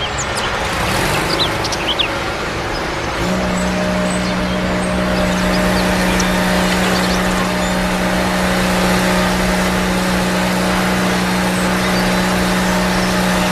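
A small electric motor starts about three seconds in and runs with a steady, even whine, after a few clicks over background noise.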